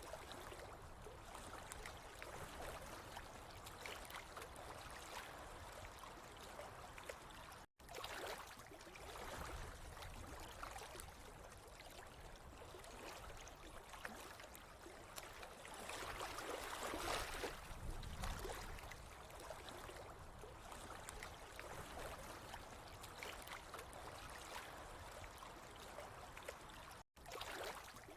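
Steady trickling, gurgling water, swelling a little louder past the middle. It cuts out to silence for an instant twice.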